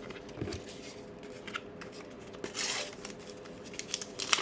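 Paper sticker packs and stickers being handled: scattered soft rustles and flicks, with a longer rustle about two and a half seconds in and a busier flurry near the end.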